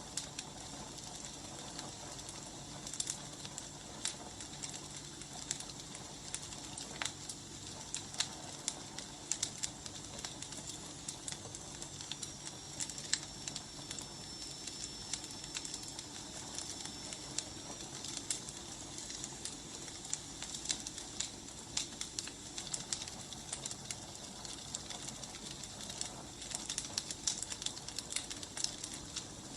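Burning firewood crackling, with irregular sharp pops over a steady soft hiss. A thin high whistle runs for several seconds in the middle.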